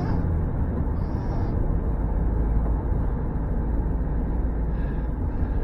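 Steady road and engine noise of a vehicle being driven, heard from inside the cabin as a low, even rumble.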